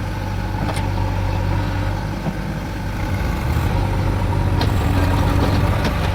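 Diesel engines of farm tractors and a backhoe loader running together under load as they work a loaded trolley out of mud: a steady low drone that grows a little louder about halfway through.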